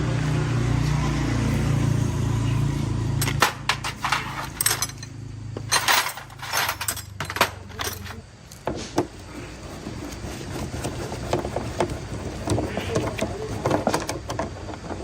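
A small motorbike engine running steadily, cutting off about three seconds in, followed by a run of sharp metallic clinks and rattles of tools and parts being handled.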